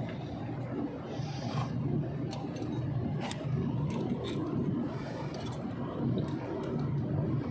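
Scattered light clicks and scrapes of hand tools on metal while a compressor is being bolted in, over a steady low hum.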